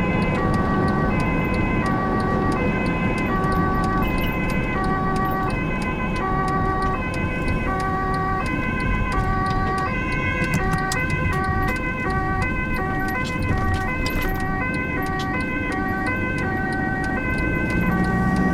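Ambulance two-tone siren alternating between a high and a low pitch, slowly at first and switching to a faster alternation about halfway through, over steady engine and road rumble.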